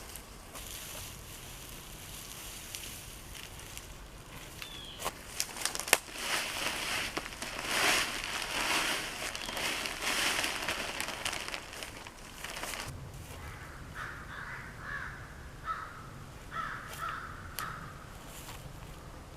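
Outdoor sound: a few sharp cracks, then several seconds of loud rushing, crackling noise, followed by a bird calling a few times in short notes.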